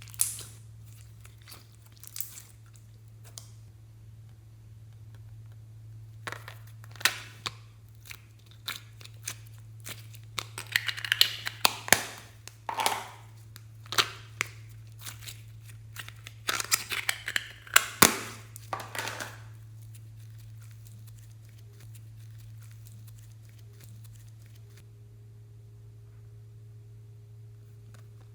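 Slime being squished, folded and stretched by hand: irregular sticky clicks, pops and crackles from trapped air, coming thick and fast between about ten and nineteen seconds in, over a steady low hum.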